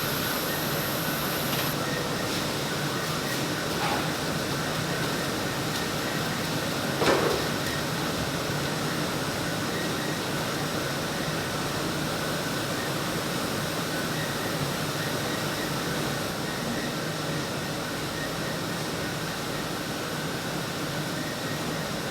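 Button polishing machinery running steadily, a continuous mechanical noise with a low hum, with a single knock about seven seconds in.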